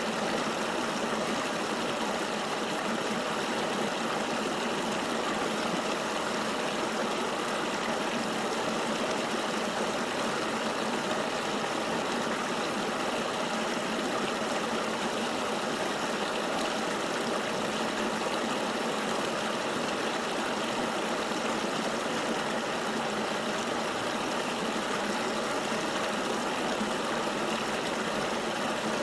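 Flowing river water: a steady, unbroken rush with little deep rumble.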